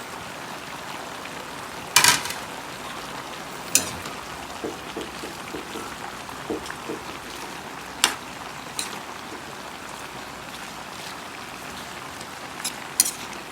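Pan of chopsuey vegetables and pork simmering in a little water: a steady bubbling hiss. A few sharp clinks break in, the loudest about two seconds in and eight seconds in.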